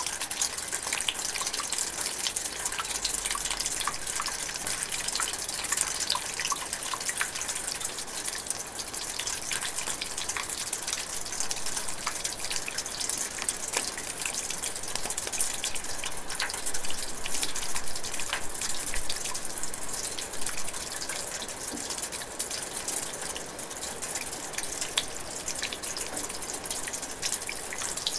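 Light rain drizzling in a forest: a steady hiss dotted with many separate drop ticks.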